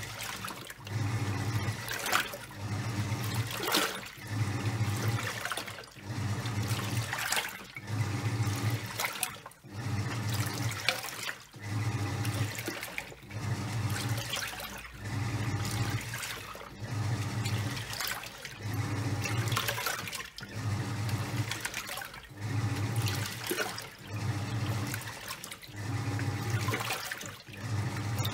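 Top-loading washing machine in its wash cycle: the pulsator motor hums in short strokes about every second and a quarter as it turns the drum's contents back and forth, with water sloshing and splashing through the towels.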